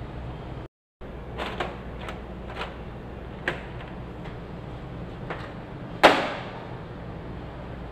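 A series of sharp clicks and knocks from objects being handled, about seven in all. A much louder knock about six seconds in rings on briefly. A steady low hum runs underneath.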